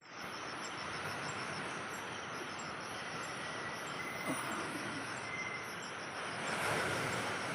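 Steady rain hiss with insects chirping in quick, regular high-pitched pulses.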